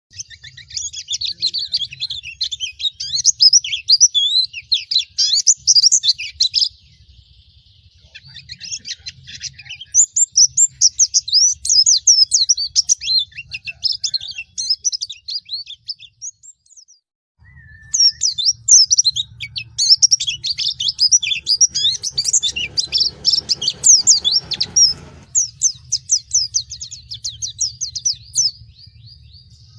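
Pleci (white-eye) singing a fast song of rapid high chirps. It comes in three long runs broken by short pauses about 7 and 16 seconds in.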